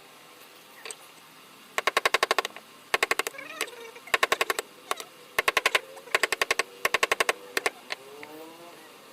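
Wood carving tool being struck in quick bursts of rapid light taps against wood, about six bursts of a dozen sharp taps each, with short pauses between them.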